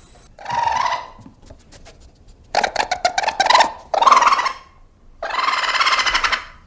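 An animal calling four times in separate bursts, the second and last with a fast rattling, chattering pulse.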